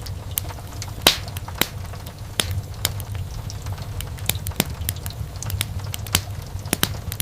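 Wood fire crackling in a fireplace: irregular sharp pops and snaps, the loudest about a second in, over a steady low rumble of the burning fire.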